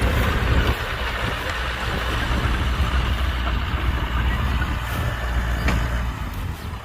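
Heavy diesel machinery engine running steadily with a deep rumble, with a sharp click about five and a half seconds in.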